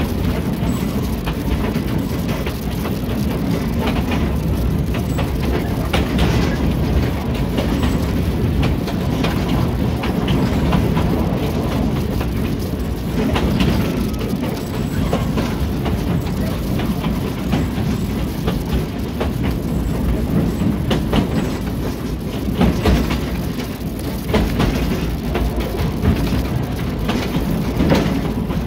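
Narrow-gauge forest train running along the track, heard from the cab: a steady low rumble and rattle, with irregular clicks and knocks from the wheels on the rails.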